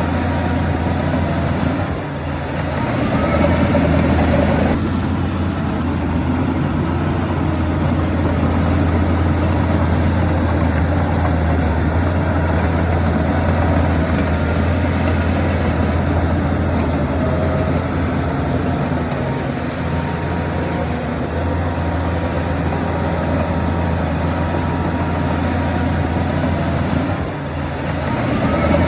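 Heavy diesel engine of earthmoving equipment running steadily under load. It eases off and then revs back up about two seconds in, and again near the end.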